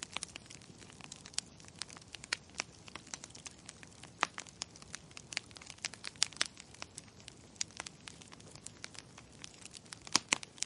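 Wood fire crackling in a fireplace: irregular sharp pops and snaps several times a second over a faint steady hiss. A few pops stand out louder, the loudest near the end.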